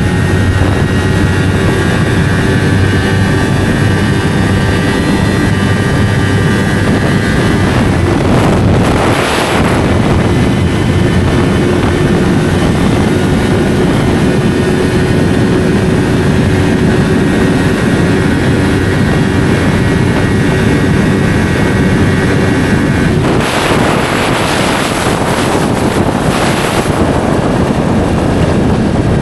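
Yamaha R3's parallel-twin engine through an SC Project slip-on exhaust, running at a steady cruising pitch while riding. A brief rush of wind noise comes about nine seconds in, and near the end the engine note gives way to a longer rush of wind noise.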